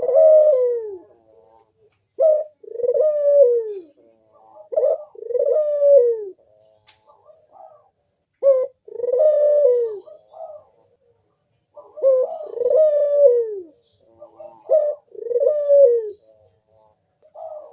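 Barbary dove (burung puter) cooing its repeated call: a short note followed by a longer, falling coo, about six times.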